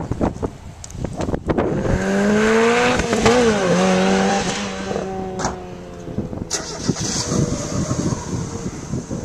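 A sports car's engine revving and easing off as the car is driven hard through a cone course. Its note rises and dips between about two and six seconds in. Wind buffets the microphone throughout.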